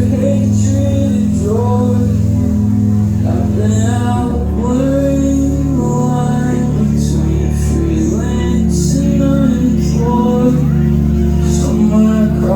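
Live rock band playing, a sung vocal line over guitars and a heavy low end, with repeated cymbal hits, recorded on a phone in the crowd.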